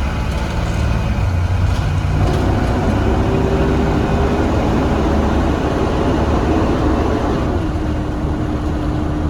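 Blue Bird Vision school bus running on the road, heard from inside the cabin: a steady low engine rumble with a whine that comes in about two seconds in and steps down to a lower pitch near the end.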